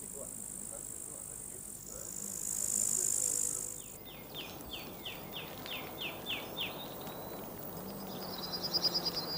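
Outdoor nature sounds: a high, steady insect buzz for the first few seconds, then a bird singing a run of about nine quick descending notes, and a faster bird trill near the end.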